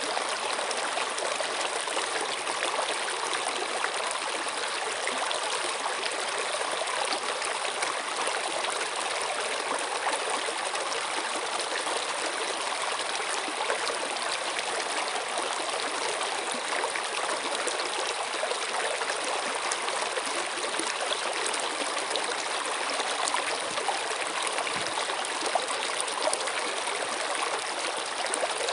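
Water running steadily in a stream, a continuous splashing trickle with no change in flow.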